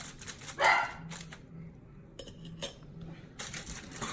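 A dog barking several times in short sharp barks, the loudest under a second in.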